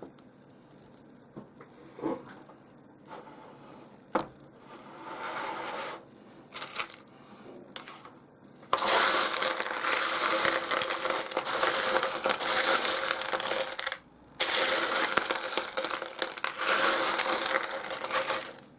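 Pieces of rough opal clattering and clinking together, first a few separate clicks, then from about halfway two long spells of dense rattling with a short break between them.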